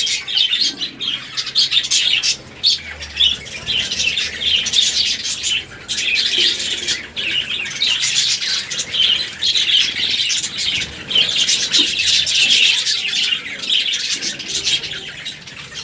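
Budgerigars chirping and chattering, many short overlapping calls without a break.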